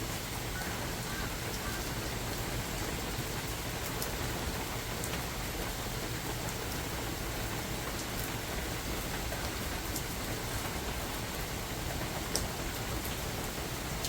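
Steady rain falling in a forest, a continuous even hiss with scattered sharp drip ticks of individual drops.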